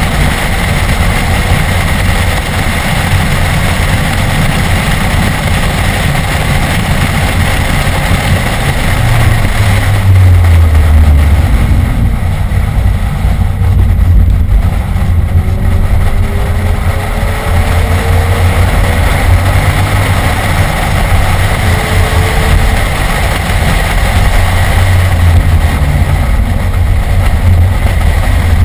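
BMW E46 M3's inline-six running hard under track driving, heard from inside the cabin, under a heavy rumble of road and wind noise. The low rumble grows louder about ten seconds in.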